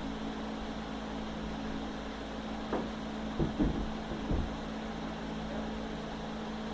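A steady mechanical hum, with a few short knocks and bumps about three to four and a half seconds in.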